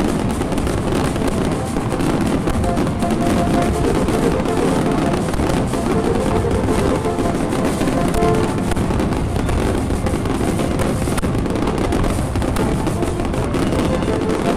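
A marching brass band, with a sousaphone and drums, playing in procession, with crackling daytime fireworks going off over it.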